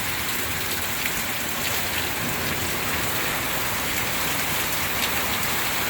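Steady rain pouring down in a thunderstorm, with a few faint ticks of drops striking surfaces.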